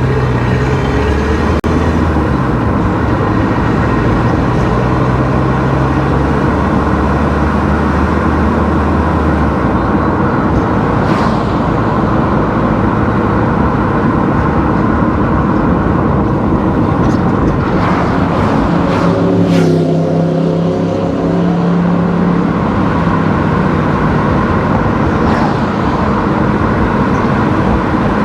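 Car driving along a road: steady engine hum and tyre noise, with other vehicles passing now and then, one passing loudly past the middle with its pitch falling.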